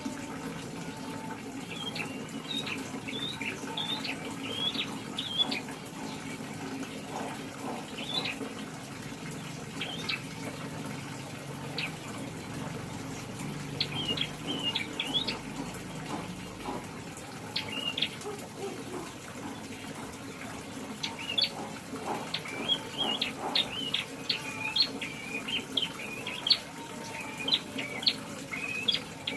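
Young prinia (prenjak) chirping in quick clusters of short, high notes, with pauses between the clusters and the busiest run of chirps near the end.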